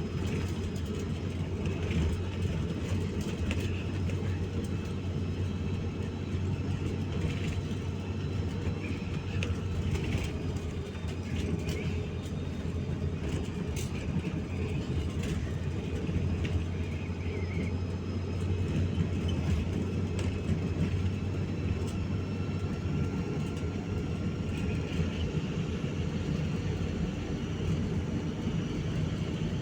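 Steady low rumble with no breaks, its weight in the low end.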